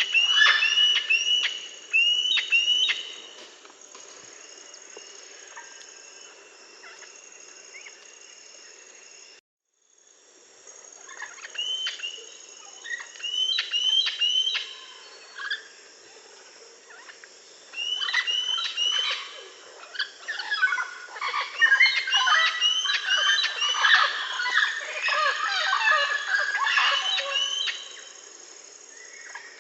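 Parrots chirping and calling in quick repeated series. The sound cuts out briefly about nine seconds in, then returns and thickens into dense overlapping chatter for most of the second half.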